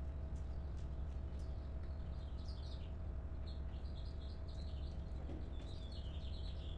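Small birds chirping in short, quick runs of high notes from about two seconds in, over a steady low rumble and a faint steady hum.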